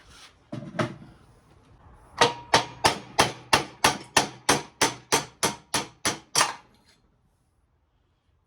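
A hammer beating on a metal part of a radial arm saw, a steady run of about fourteen blows at about three a second with a slight metallic ring, knocking a steel bearing out of its cast aluminum housing. Before the hammering there are a couple of handling clunks, and it stops about two seconds before the end.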